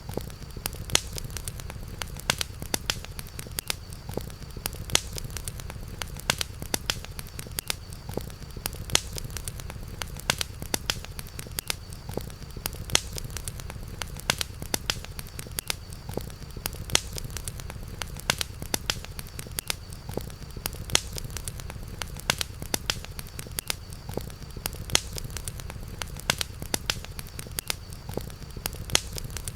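Campfire crackling: sharp wood pops, several a second, over a steady low rumble of the fire, with a faint steady high-pitched tone behind it.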